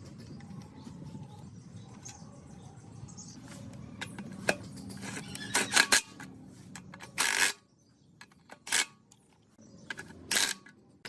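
A low steady hum with scattered sharp clicks and knocks, like small metal parts or tools being handled, growing louder after about four seconds. In the second half, short knocks are separated by stretches of near silence.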